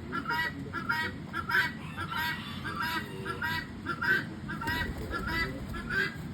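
Farmyard poultry giving short, repeated honking calls, about two or three a second.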